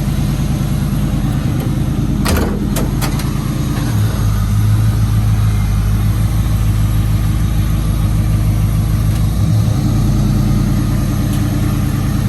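Chevrolet Monte Carlo's engine running at idle. It rises to a steady higher speed about four seconds in, holds for several seconds and settles back to idle near the end. A few sharp clicks sound about two seconds in.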